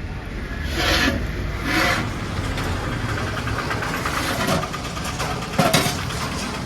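A motor vehicle engine running steadily, with a few short bursts of louder noise and a sharp clatter near the end.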